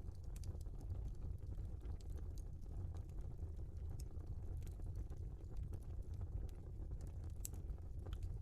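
Wood fire burning in a fireplace: a steady low rumble of the flames with scattered sharp crackles and pops of burning logs.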